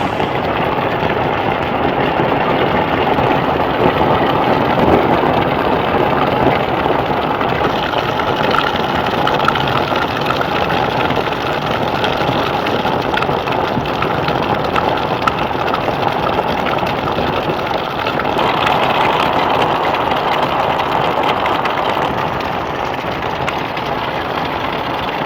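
Steady heavy rain, a dense even hiss of falling drops with no letup.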